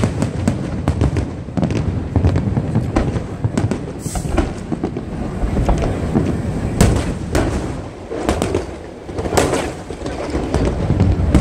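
Display fireworks shells bursting in quick succession: many sharp bangs, several a second, over a steady low rumble from the barrage.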